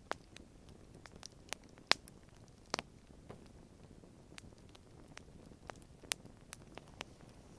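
Wood campfire crackling: sparse, irregular sharp pops over a faint low hiss.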